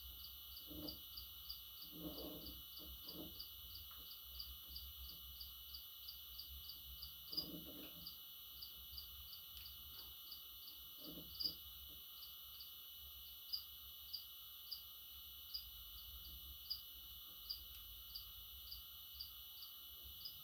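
Faint, evenly spaced high-pitched chirps, about three a second at first and slowing to about one a second in the second half, with a few soft low sounds in between.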